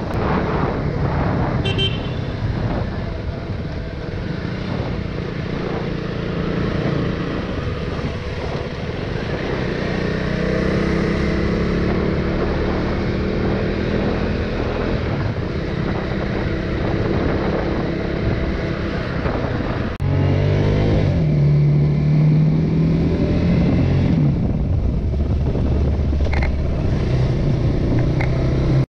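KTM Duke 390's single-cylinder engine running under way, its pitch rising and falling as the rider works the throttle and gears, with wind and road noise. About twenty seconds in, the sound jumps louder and the engine note becomes closer and clearer.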